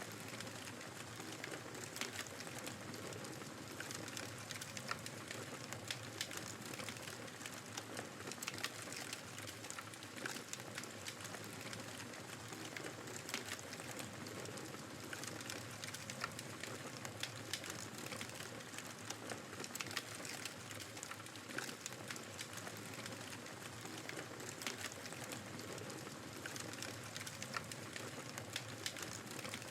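Wood fire crackling in a fireplace, frequent small pops and snaps, over the steady rush of blizzard wind.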